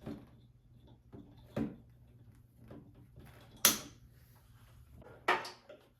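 A few irregular sharp knocks and clunks, the loudest just past the middle and a quick double knock near the end, from handling tools and an electrical box while it is remounted.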